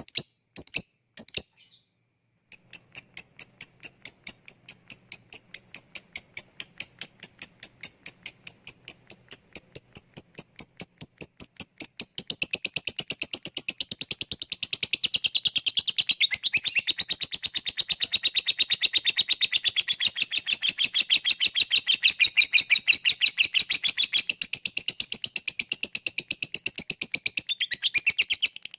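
Lovebird calling: a few single sharp chirps, a short pause, then a long unbroken run of rapid, evenly spaced chirps. About halfway through the run grows fuller and lower, becoming the lovebird's continuous 'ngekek' chatter.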